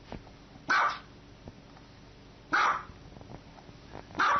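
Small white dog barking: three short, sharp barks spaced about two seconds apart, the last near the end.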